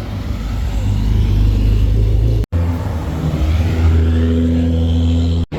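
Car engine and exhaust running at a steady speed with a deep low drone, growing a little fuller after about three seconds. The sound cuts out completely twice for a split second, about two and a half seconds in and near the end.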